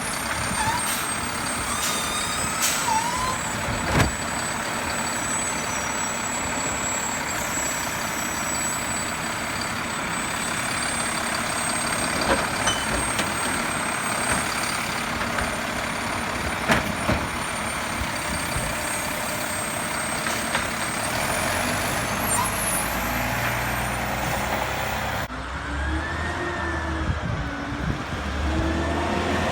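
Garbage truck running steadily, with a few sharp clanks. Near the end the sound changes and the engine pitch rises and falls.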